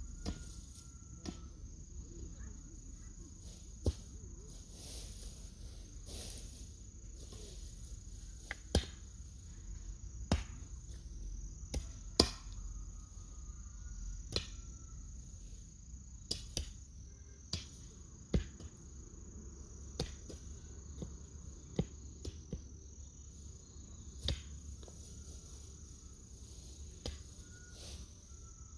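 Sharp single knocks or chops every one to two seconds, irregularly spaced, over a steady high-pitched insect trill.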